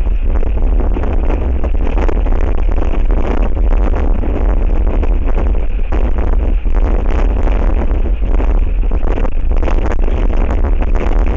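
Strong wind buffeting the nest camera's microphone: a loud, steady rushing roar with a heavy low rumble.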